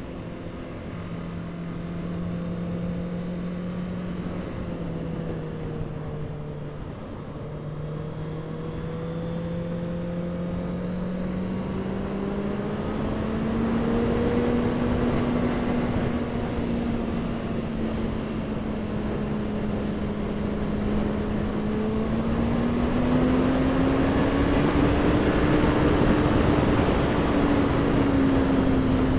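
Honda CB650F's inline-four engine running under way, its pitch rising and falling gently as the throttle is opened and eased. Wind noise grows louder toward the end as speed builds.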